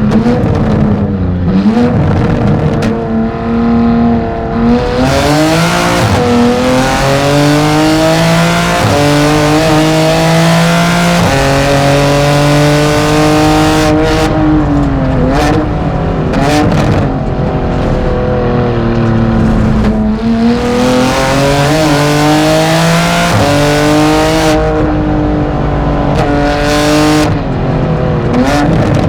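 BMW M4 GT4 race car's twin-turbo straight-six heard from the cockpit at racing speed, its pitch climbing under acceleration and dropping sharply at each gear change, again and again as it laps the circuit.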